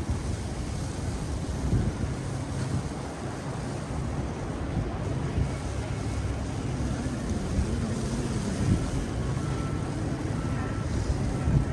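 City street ambience in a snowstorm: a steady low traffic rumble mixed with wind buffeting the microphone, and a faint short repeated tone near the end.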